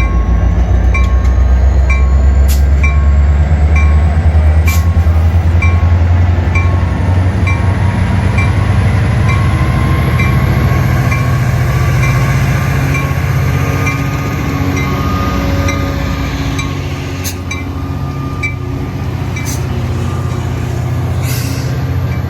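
Metra MP36PH-3C diesel locomotive and its commuter train running through the station. A loud low rumble fades steadily as the train moves away, while a bell dings about twice a second, with a faint slowly rising whine and a few sharp clicks.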